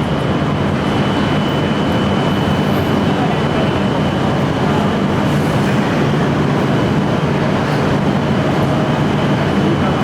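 Shinkansen trains standing at the platform, their on-board equipment giving a steady, loud hum and rush with a thin, high, steady whine over it.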